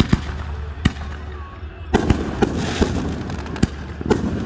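Fireworks display going off: a run of sharp bangs from bursting aerial shells, about eight in four seconds, with a fizzing crackle between the bangs from about two seconds in.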